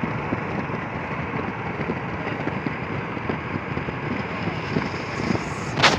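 Freight train rolling past: a steady rumble with the constant clatter of wheels on the rails. A quick run of sharp clicks comes near the end.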